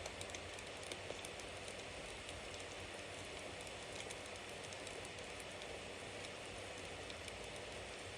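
Bonfire burning: a steady hiss with many small crackles and pops, a couple of louder pops about a second in.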